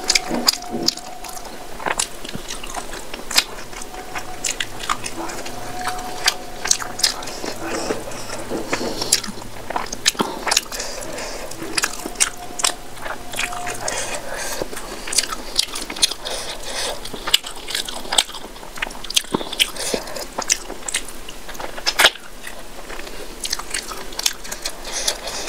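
Close-miked eating of rice mixed with fish curry by hand: wet chewing with many sharp smacks and clicks of lips and tongue.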